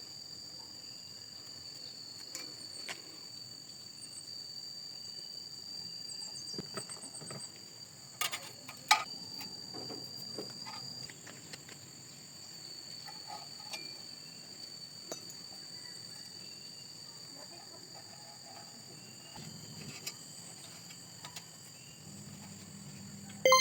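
Quiet background with a steady high-pitched whine and a few sharp knocks, the loudest about eight and nine seconds in.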